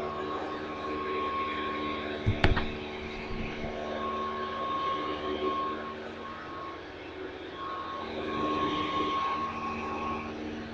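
Hoover Convertible U4365 upright vacuum cleaner running steadily, its motor humming with a high whine; one sharp knock about two seconds in.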